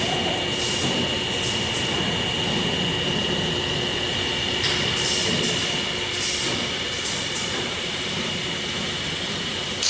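Tyre-factory machinery running steadily with a constant high whine, broken by several short hisses, most clearly about five seconds in.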